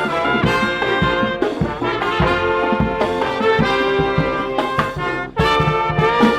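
Live brass band with drums playing a tune, trumpets and trombones to the fore. Just after five seconds in the music breaks off for a moment, then the full band comes back in loudly.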